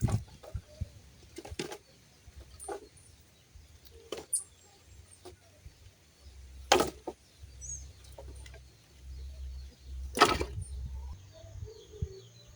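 A few sharp, irregularly spaced cracks or knocks, the two loudest about seven and ten seconds in.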